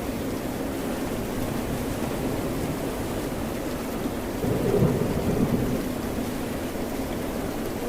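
Steady rain noise with a low rumble of distant thunder swelling up about halfway through and fading after a second or so.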